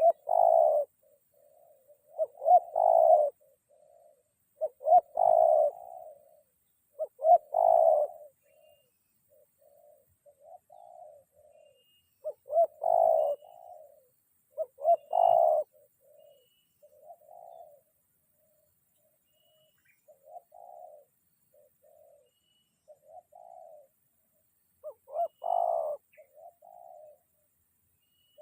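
Spotted doves (tekukur) cooing in repeated phrases, the call dove-lurers name "ngruk". Loud coos come every two to three seconds, with fainter coos between them; the loud ones drop out for several seconds past the middle and return near the end.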